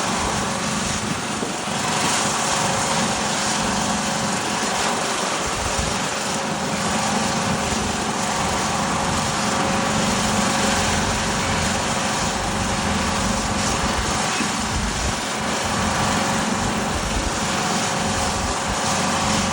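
JCB backhoe loader's diesel engine running steadily at working speed.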